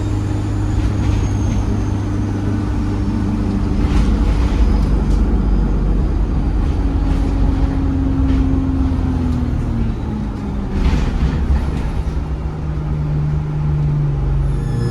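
Inside an ADL Enviro 200 single-deck bus: the diesel engine runs steadily, with a faint high turbo whistle falling away in the first couple of seconds. About eight seconds in, the engine note drops as the bus slows, and a few knocks and rattles come from the cabin.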